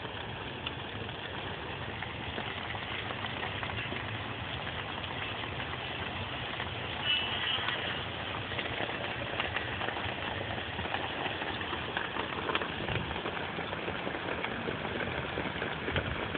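Steady outdoor background noise, an even low rumble and hiss, with a few faint ticks.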